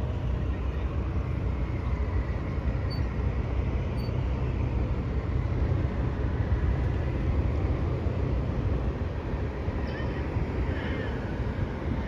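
Motorboat engine running steadily with wind and water noise, a constant low rumble.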